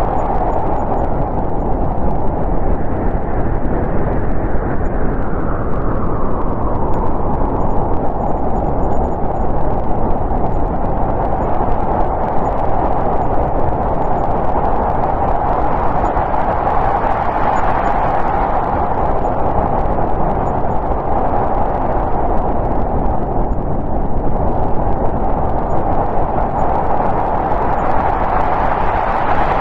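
Snowstorm wind blowing steadily, swelling and easing in a few slow gusts.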